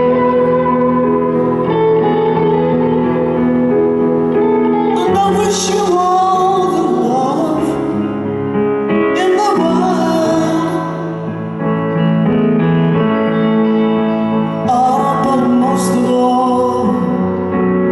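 Live ballad: a woman singing slow phrases over sustained piano chords and guitar, recorded from the arena crowd.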